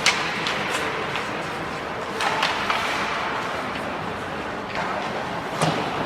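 Ice hockey game play in a rink: sharp clacks of sticks, puck and boards, a few seconds apart, over a steady wash of skating and arena noise.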